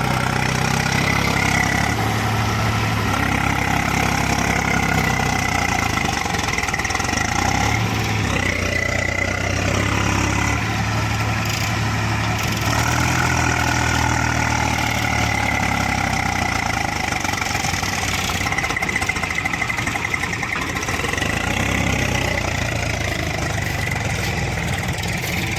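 Swaraj 735 FE tractor's diesel engine running, its note rising and easing several times as the tractor works to get out of mud.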